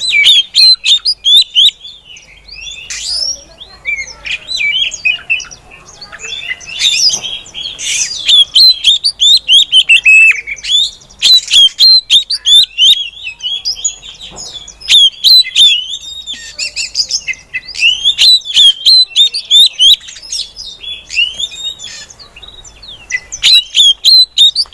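Female oriental magpie-robin calling: loud, rapid runs of short chirping notes in bursts, broken by brief pauses.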